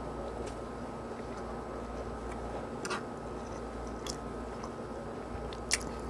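A person chewing a mouthful of soft instant fried noodles, with a few short clicks in between, the sharpest near the end.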